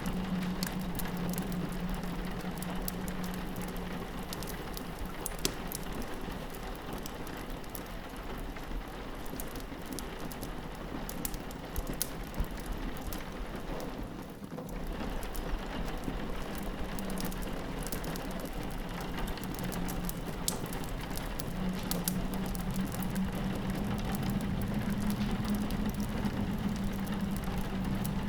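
Rain pattering on a window pane as a steady hiss, layered with the sharp crackles and pops of a wood fire. A low howl of wind fades away after a few seconds and comes back about two-thirds of the way through.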